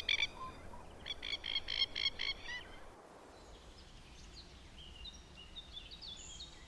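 Masked lapwing calling: a rapid series of short, harsh notes, about five a second, for a second or two, followed by fainter high chirps.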